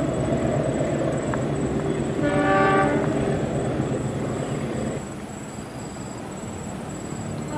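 Rumble of a passing train, with the locomotive horn sounded once for about a second, about two seconds in. The rumble drops off about five seconds in.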